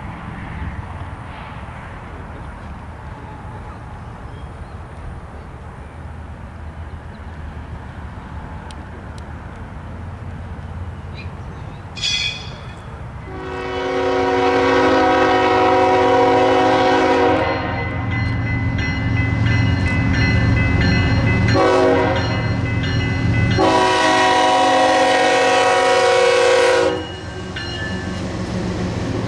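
A diesel locomotive approaches with a low rumble, then sounds its multi-chime air horn in two long blasts, one short and one long. That is the standard signal for a grade crossing.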